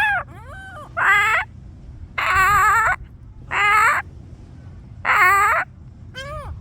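A gull calling loudly and repeatedly: about five wavering calls of roughly half a second each, at an even pace of one every second and a bit.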